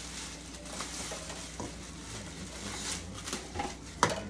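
Rustling and handling of the juicer's packaging and plastic parts, with small clicks and one sharp knock about four seconds in.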